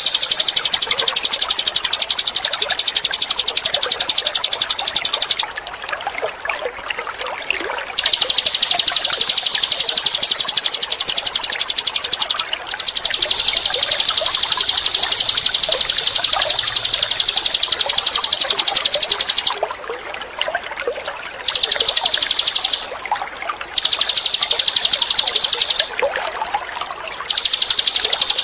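Ninin eurih bird giving long, very fast buzzing trills in five bouts with short breaks, over steady trickling water.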